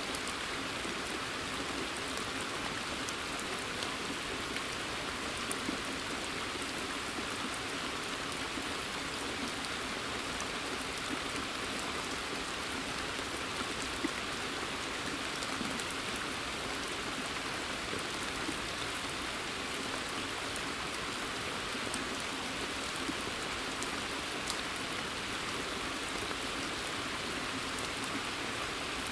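Steady rain falling in woodland, drops pattering on a pond's surface; a few single closer drips stand out now and then.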